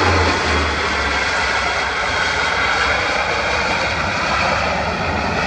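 Bombardier Dash 8 Q400 turboprop engines and propellers, a steady loud drone with several held tones over a broad rush.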